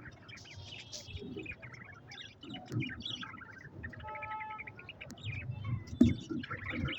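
Budgerigars chirping and chattering in quick short notes, with one short held note about halfway through and a knock about six seconds in.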